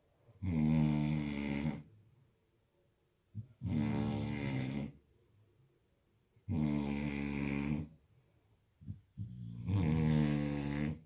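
A sleeping dog snoring, with four long snores coming about every three seconds. It sounds much like a person snoring.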